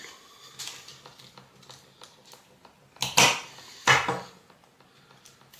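Two short clattering knocks about three and four seconds in, from small brake caliper parts and tools being handled on a workbench while the new piston is greased.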